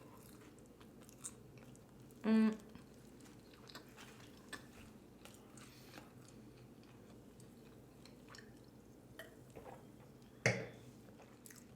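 A person chewing a burger close to the microphone: soft, wet mouth clicks and smacks. About two seconds in comes a short hummed "mm", and near the end a single louder smack.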